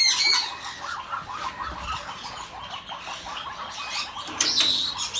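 African grey parrot calls from inside the nest box: a harsh squawk at the start and another about four seconds in, with a quick run of short, soft chirps in between.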